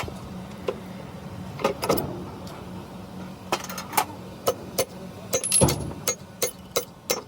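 A string of sharp clicks and knocks, with a heavier knock about five and a half seconds in: tools and metal parts being handled during engine repair work. A steady low hum runs underneath.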